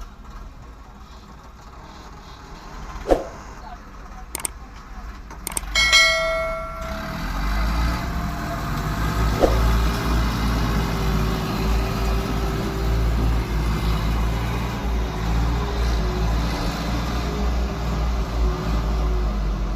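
A few sharp knocks, then a short ringing tone about six seconds in, after which a tractor's diesel engine runs with a steady low rumble that grows louder.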